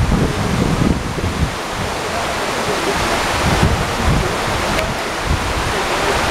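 Waterfall rushing steadily, with wind gusting on the microphone.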